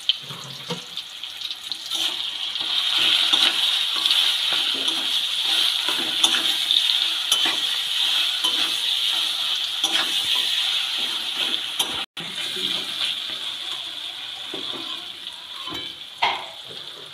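Mashed olives and spices sizzling in hot mustard oil in a metal wok, with a metal spatula scraping and knocking against the pan as the mixture is stirred. The sizzle grows louder about two seconds in and drops after a brief break near the middle.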